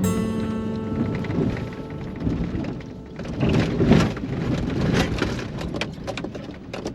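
Rain pattering, with many irregular sharp spatters over a low rumble. Guitar music fades out in the first second or two.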